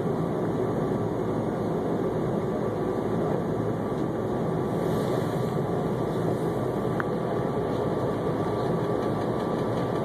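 Steady running rumble of a moving SEPTA commuter railcar heard from inside the passenger cabin, with a faint steady whine above it and a single faint click about seven seconds in.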